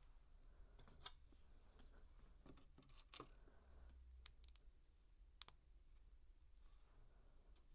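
LEGO plastic bricks clicking and tapping faintly as pieces are handled and pressed together: a dozen or so sharp, scattered clicks, the loudest about three and five and a half seconds in.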